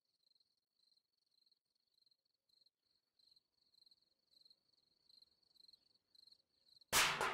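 Crickets chirping steadily, about two chirps a second; near the end a sudden loud crash with a short ringing tail.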